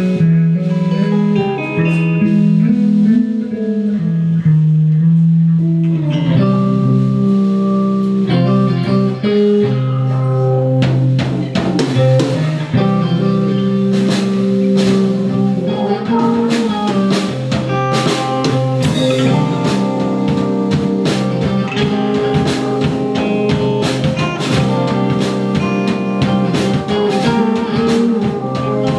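Live rock band playing an instrumental passage: electric guitar and bass notes, with the drum kit coming in fully about six seconds in and keeping a steady beat.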